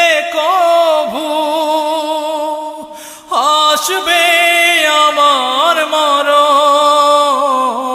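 A Bengali song: a singer holds long, wavering notes with vibrato, breaks off briefly about three seconds in, then goes on with more sustained notes.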